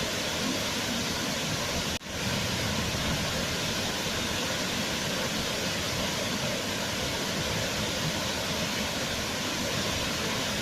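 Waterfall: a steady, even rush of falling water, broken by a brief dropout about two seconds in.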